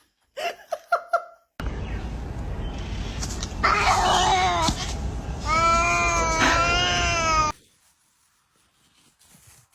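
A cat caterwauling: two long, wavering yowls about four and six seconds in, over a steady hiss, cutting off abruptly. A few short meow-like calls come in the first second.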